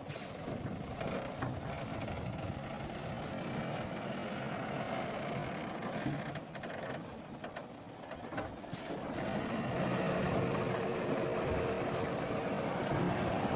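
Diesel engines of heavy earthmoving machinery running steadily, growing louder about nine to ten seconds in, with a few brief high clicks.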